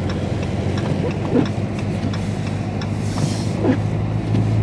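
Engine drone of a 2022 Dodge Charger Scat Pack's 392 (6.4-litre) HEMI V8, heard inside the cabin while cruising slowly at light throttle on a snowy road. The drone is steady and rises slightly in pitch near the end as the throttle opens.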